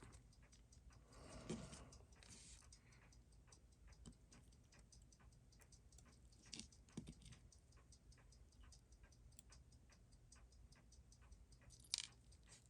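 Near silence with faint, rapid, even ticking, about five ticks a second, and one sharper click near the end.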